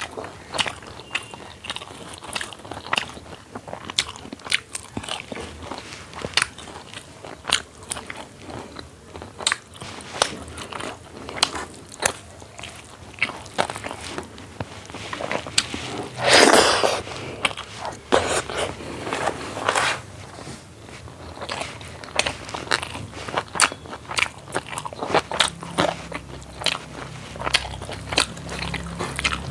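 Close-miked eating of a dal bhat meal with buff meat: steady chewing, biting and crunching with many sharp, irregular wet mouth clicks. One louder crunch of about a second comes just past the middle.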